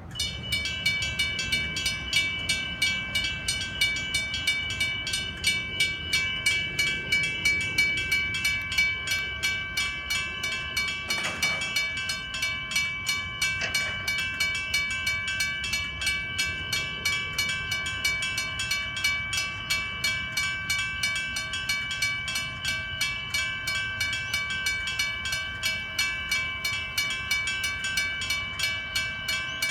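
Railway level crossing warning bell ringing, a fast steady run of repeated dings that starts suddenly and keeps going, over a low rumble.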